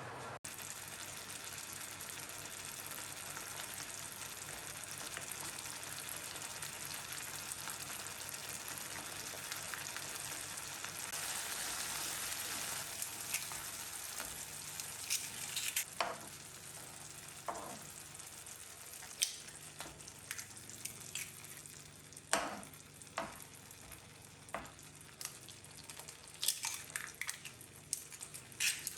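Food sizzling in a pan: a steady frying hiss through the first half, which then drops away. After that come scattered sharp clicks and knocks of kitchen utensils.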